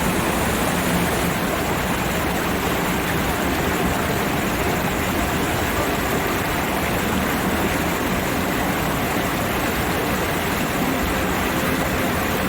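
Ryujin Falls, a two-tiered waterfall about 20 m high, pouring steadily: a dense, even rush of falling water.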